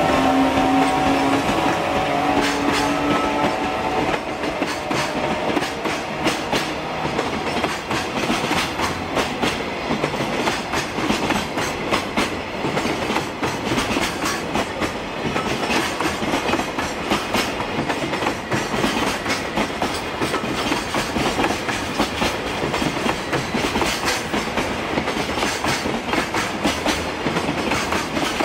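JR Freight EF210 electric locomotive accelerating past, its gear whine rising in pitch and fading within the first few seconds. Then a long string of container flatcars rolls by with a steady clickety-clack of wheels over rail joints.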